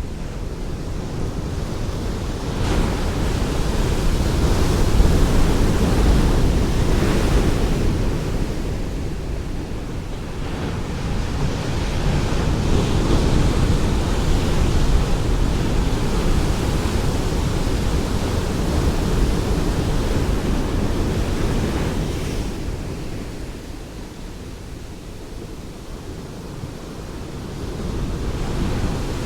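Ocean waves breaking on a shore, a steady wash of surf that swells and recedes, with a quieter lull about three-quarters of the way through.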